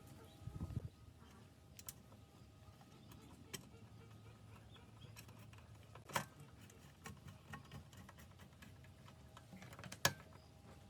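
Scattered light clicks and taps, with a low thud about half a second in and sharper knocks about six and ten seconds in.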